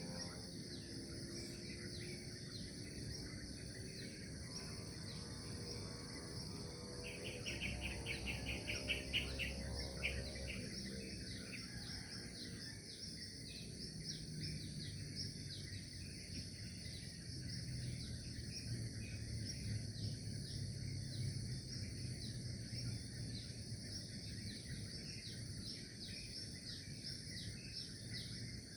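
Nature ambience: a steady, high-pitched insect chorus with many short repeated chirps. About seven seconds in, a rapid pulsing trill comes in for roughly three seconds.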